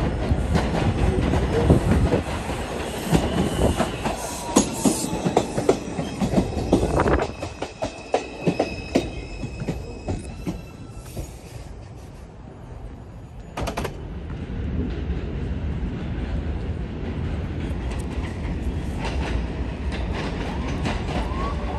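New York City Subway 4 train cars running through the station: steel wheels clicking over rail joints, with thin wheel squeals, fading after about seven seconds. Around two-thirds of the way in, a rumble builds as the next train approaches.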